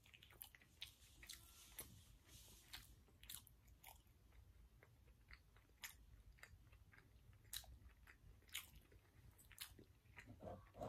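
Faint, close-up chewing: irregular wet mouth clicks and smacks of someone eating with the mouth closed.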